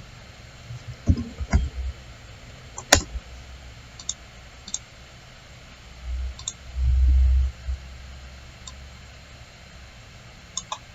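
Computer mouse clicking now and then: a handful of scattered sharp clicks. About two-thirds of the way through there is a low muffled bump lasting under a second.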